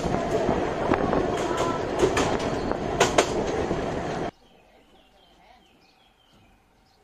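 Narrow-gauge train running along the track, a steady rumble with several sharp clacks from the wheels over rail joints. About four seconds in it cuts off abruptly, leaving faint birdsong.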